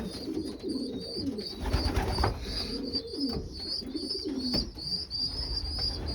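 Many pigeons cooing together in a loft, overlapping wavering low coos throughout, over a steady run of quick high chirps. A brief rustling thump about two seconds in and a sharp knock a little past the middle.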